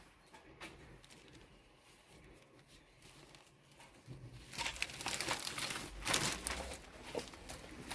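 Crinkling and crackling, as of something being crumpled or handled, starting about halfway through and loudest for a couple of seconds before easing off.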